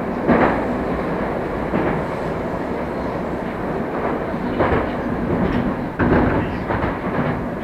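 Moscow Metro train running through the tunnel, heard from inside the car: a steady rumble with short wheel clacks over rail joints every second or two.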